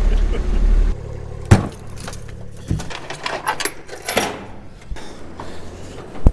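A vehicle's engine running and then cut off about a second in, followed by keys jangling and several sharp knocks and clicks, the loudest a hard knock at the very end.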